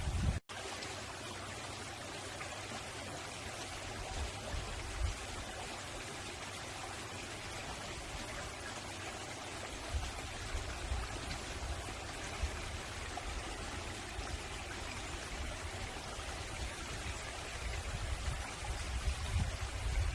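Mountain stream rushing and splashing over rocks in a steady, even wash of water sound, with a brief dropout just after the start.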